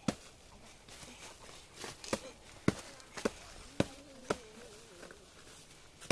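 Chopping with a hand blade: a run of sharp, separate strikes, about seven in all, mostly half a second to a second apart.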